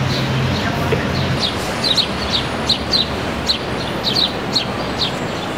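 Small birds chirping repeatedly in short, high, downward chirps, about two or three a second, over a steady hum of city background noise.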